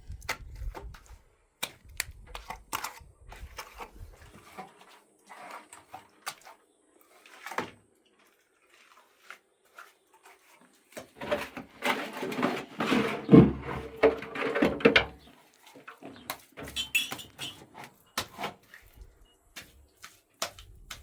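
Scattered knocks and clicks of hand work, with a louder, busier stretch of clatter a little past the middle.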